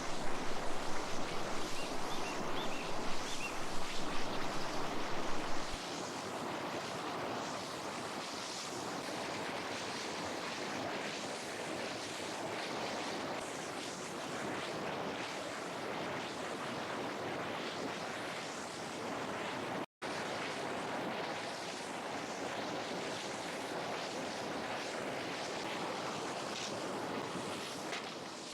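River water flowing, a steady rush. It is louder and uneven for the first six seconds or so, then settles, and drops out for an instant about twenty seconds in.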